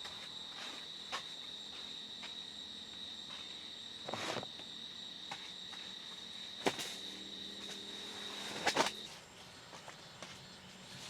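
An insect's steady high-pitched trill that cuts off sharply about nine seconds in, with a few scattered knocks over it.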